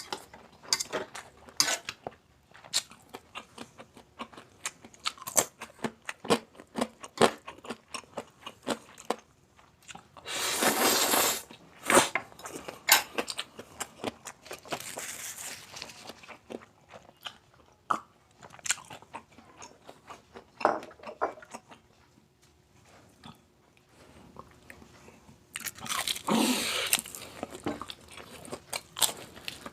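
Close-up crunching and chewing of crispy pata, deep-fried pork leg with crackling skin: many sharp crisp bites one after another, with two longer, louder stretches of crunching about 11 and 26 seconds in.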